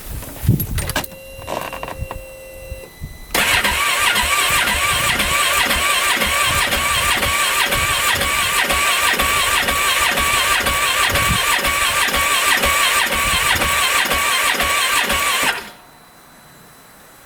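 A few clicks and short beeps, then the 2015 Polaris Ranger 570's single-cylinder engine being cranked by its starter for about twelve seconds, turning over with an even pulse but not catching. It stops abruptly. The rebuilt engine sounds rough to the owner, who fears a failed rod bearing.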